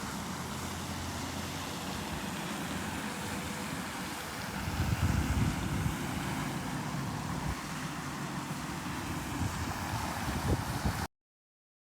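Wind buffeting the microphone in gusts over a steady hiss, strongest about halfway through; the sound cuts off suddenly near the end.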